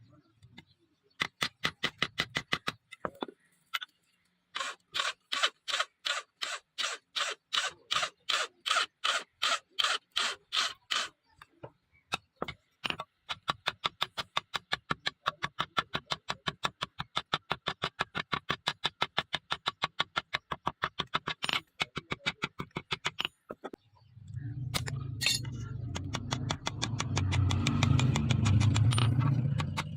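Steel being worked with fast, evenly repeated strokes, about three a second, then about four a second. About 24 s in a louder, low, steady machine noise starts under the strokes and cuts off near the end.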